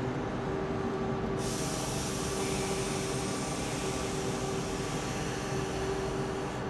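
Steady hum and rumble inside the car of an X11 electric commuter train, with a steady hiss joining about a second and a half in.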